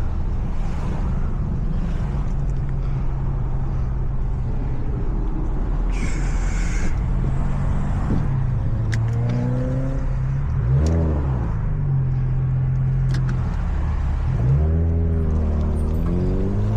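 Car engine and exhaust droning at low speed, with revs rising and falling about ten seconds in and again near the end, and a brief hiss about six seconds in.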